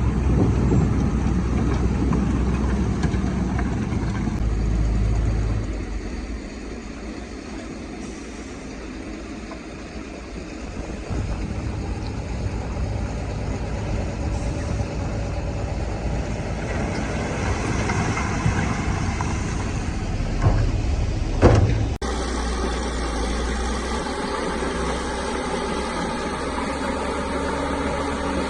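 Crawler bulldozer's diesel engine running under changing load. It is loud at first, eases off for a few seconds, then builds again, with a sharp knock about two-thirds of the way through.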